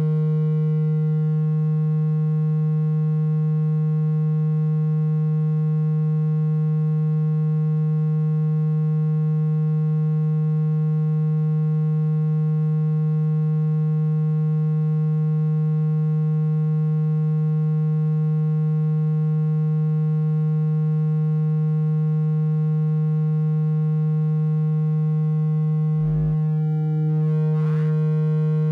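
Steady low electronic tone with a buzzy edge, the water-ejection tone played to vibrate water out of a phone speaker. Near the end it is broken briefly by a short jolt and a brief higher tone, then carries on unchanged.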